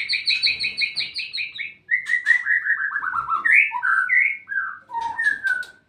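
White-rumped shama (murai batu) singing: a fast run of about seven repeated chirping notes a second, then after a brief pause a run of notes falling in pitch, followed by several varied whistled phrases.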